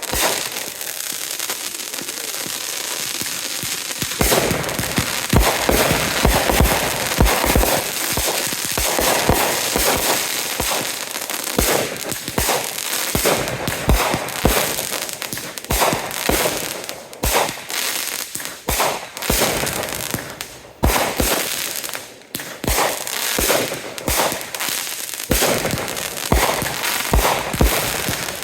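Fireworks going off: a dense crackling hiss for the first few seconds, then a rapid, uneven string of bangs and crackles.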